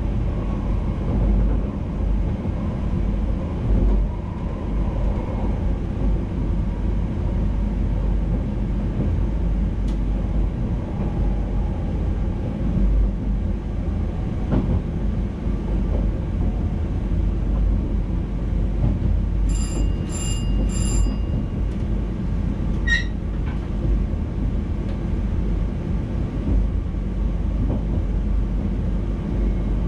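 NS VIRM double-deck electric intercity train running along the track, heard from the driver's cab as a steady low rumble. Three short high beeps sound in quick succession about two-thirds of the way through.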